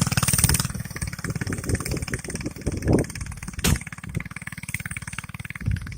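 Predator 212cc single-cylinder four-stroke engine of a Baja Dirt Bug mini bike running, loudest in the first second, then dropping to a lower, uneven throttle with its firing pulses still plain. A single sharp click about three and a half seconds in.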